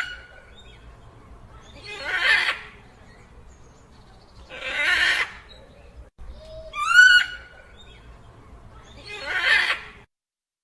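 Dinosaur creature sound effect: a pattern of calls that repeats, with hoarse, breathy calls every two to three seconds and a short rising pitched call in between, rather like a whinny. It stops shortly before the end.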